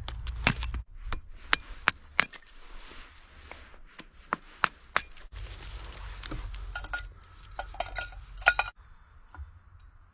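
A small metal wood-burning camp stove being fed and lit: irregular sharp knocks and clinks, about fifteen in all, as sticks of firewood strike the stove.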